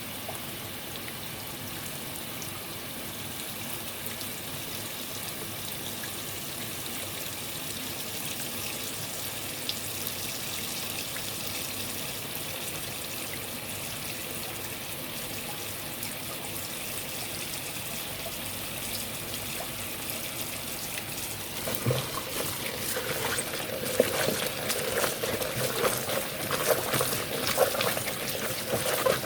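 Water running steadily, like a stream from a tap. About three-quarters of the way through it turns louder and uneven, with irregular knocks and clatter over the flow.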